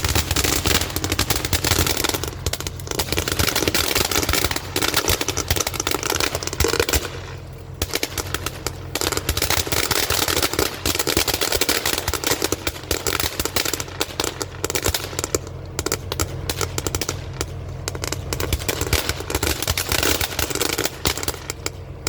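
A firework going off in a long, rapid run of crackling pops and bangs, with a brief lull about seven seconds in, lasting about twenty seconds before stopping.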